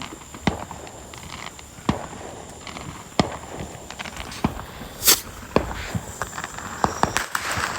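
Firecrackers going off as scattered sharp pops and cracks at irregular intervals, the loudest about five seconds in, over a steady high cricket trill.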